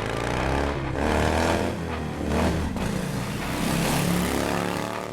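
Motorcycle engine running and revving, its pitch rising and falling over several seconds.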